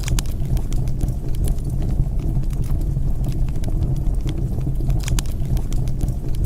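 Wood fire crackling: frequent sharp pops and snaps over a steady low rumble of burning, with a brighter cluster of pops right at the start and again about five seconds in.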